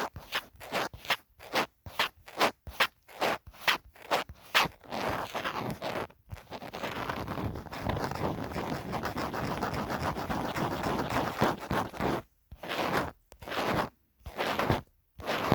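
Scratching on a phone case: quick separate strokes, about three a second, then a continuous run of fast scratching from about five seconds in until about twelve, then a few slower strokes with short gaps near the end.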